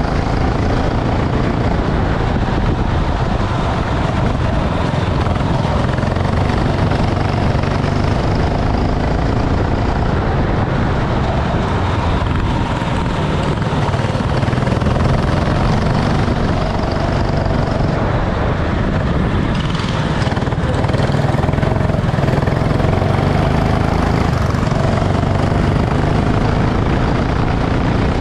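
Go-kart engine running at racing speed, its pitch rising and falling, over a heavy steady rumble.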